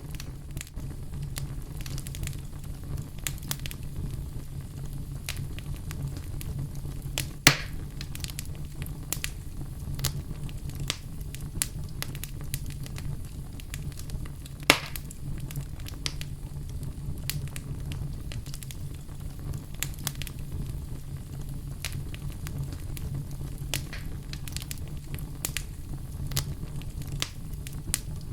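Wood fire in a fireplace crackling steadily over a low rumble of the flames, with many small snaps and two loud sharp pops, one about 7 seconds in and one about halfway through.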